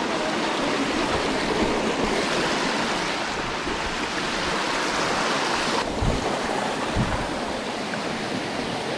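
Waterfall pouring, a steady dense rush of falling water. Two dull low thumps come about six and seven seconds in.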